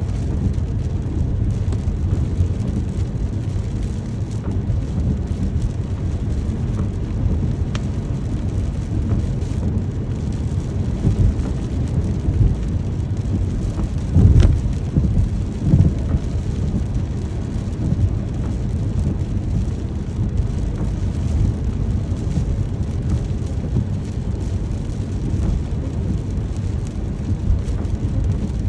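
Steady rain with a low rumble underneath; two louder rumbles of thunder swell up about halfway through.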